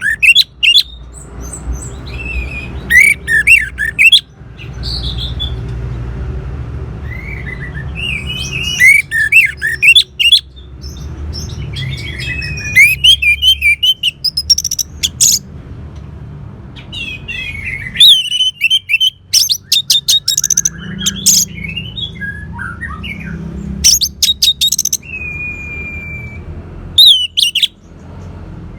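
Orange-headed thrush singing a loud, varied song: phrases of slurred whistles and fast rattling trills broken by short pauses, over a steady low rumble.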